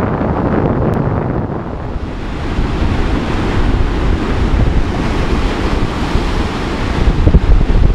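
Typhoon-driven surf breaking and washing, under heavy wind buffeting on the microphone. The hiss of the surf swells up about two seconds in.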